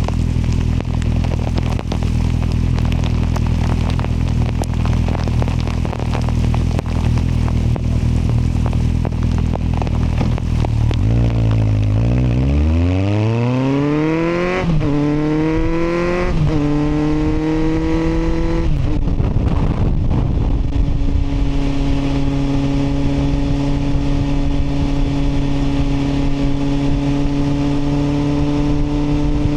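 Kawasaki motorcycle engine idling steadily, then accelerating away. Its pitch climbs and drops back three times as it shifts up through the gears, then it settles into a steady cruise.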